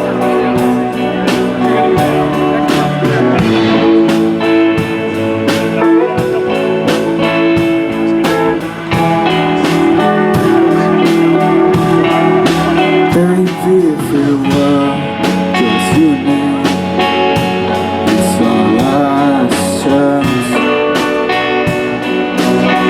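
Live rock band playing an instrumental passage: a guitar line with bent, wavering notes over a steady drum beat and bass.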